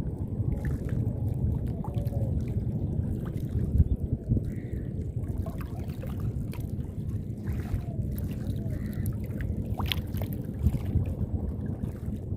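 River ambience: a steady low rumble with scattered small clicks and splashes, and one sharper click about ten seconds in.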